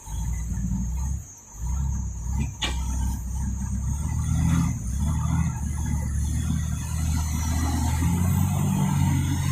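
Nissan TZA 520 dump truck's diesel engine running steadily, with a brief dip in level a little over a second in and a single sharp click just before the three-second mark.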